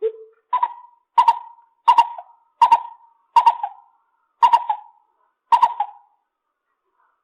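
Lesser coucal calling a series of about eight hollow hoots, evenly spaced about two-thirds of a second apart. The first note is low and the rest a step higher. The series stops about six seconds in.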